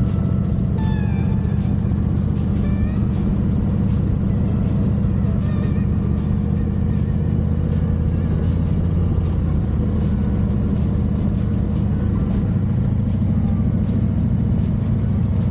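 Harley-Davidson Heritage V-twin motorcycle engine running at a steady cruise on the road; its pitch shifts slightly about ten seconds in.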